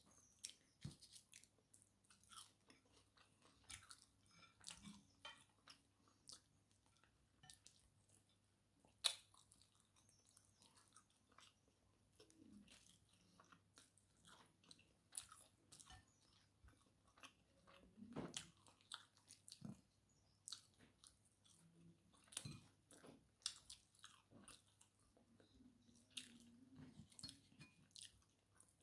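Quiet close-up chewing and biting of fried fish and rice eaten by hand, with many short clicks and crunches scattered throughout; the sharpest comes about nine seconds in.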